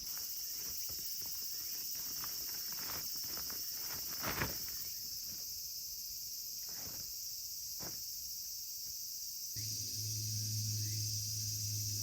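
Insects chirping steadily in woodland, a high continuous trill, with scattered soft snaps and rustles; the loudest snap comes about four seconds in, and a low hum comes in near the end.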